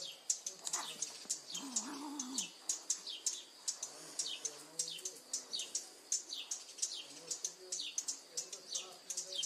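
Small birds chirping rapidly and continuously, several short falling chirps a second. About two seconds in, a low wavering growl-yowl from a cat wrestling with another cat, with fainter low growling later.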